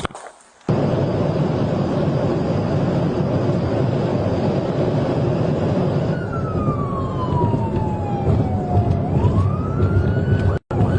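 A police car in a high-speed pursuit: steady, loud road and engine noise, with a siren wail that sweeps slowly down and then back up in the second half. The sound begins abruptly under a second in and drops out for a moment just before the end.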